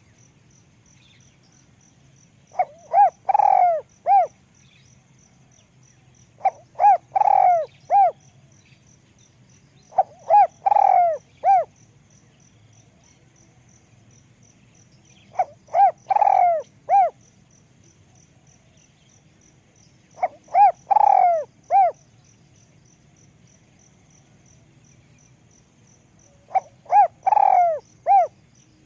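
Spotted dove cooing: six phrases spaced a few seconds apart, each a couple of short notes, a longer coo, then one or two short notes. A cricket trills faintly and steadily underneath.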